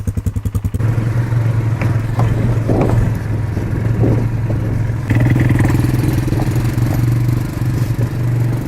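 A small vehicle engine idles, chugging unevenly at first. About a second in it settles into a steadier run, and a little past halfway its note steps up slightly.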